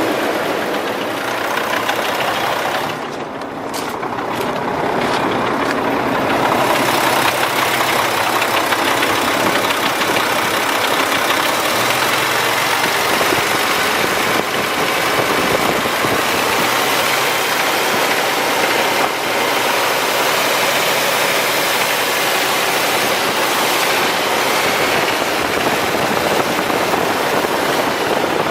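Mack AMI-300 diesel engine of a 2003 Mack DM690S truck running steadily, dipping briefly a few seconds in.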